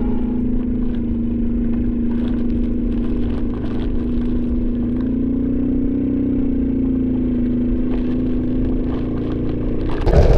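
Suzuki Raider 150 motorcycle engine running at a steady cruise, its pitch rising a little about halfway through and then settling back.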